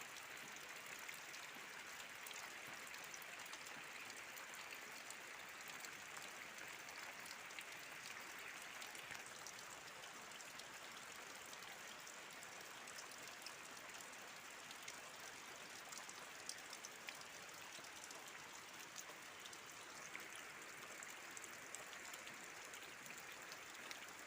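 Light rain falling: a faint, steady hiss with scattered ticks of individual drops.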